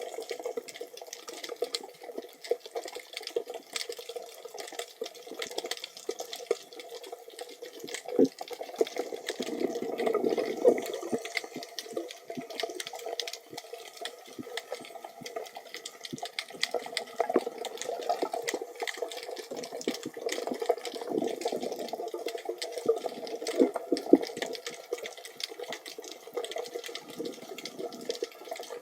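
Underwater water noise picked up by a camera in a waterproof housing: a continuous wash with many small crackling clicks, swelling for a couple of seconds about a third of the way in.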